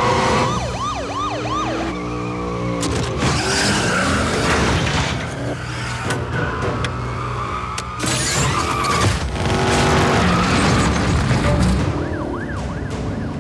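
Film car-chase sound mix: police sirens wailing in quick rising-and-falling sweeps over running car engines, with sudden impacts of cars crashing.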